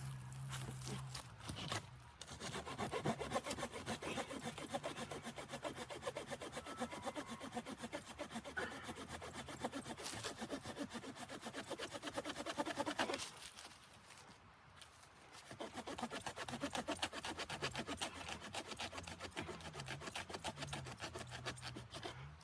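Hand saw cutting through wood in quick back-and-forth strokes, stopping for a couple of seconds about two-thirds of the way through and then starting again.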